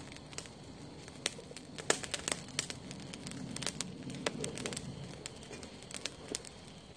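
Wood fire crackling under fish on the grill, with sharp irregular pops over a steady low hiss.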